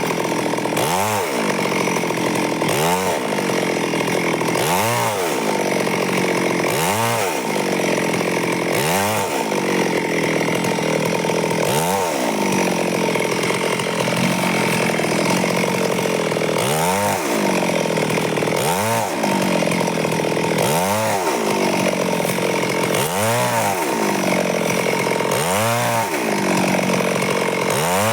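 Stihl chainsaw cutting through wood, running continuously under load; its engine note rises and falls about every two seconds, holding steadier for a few seconds about halfway through.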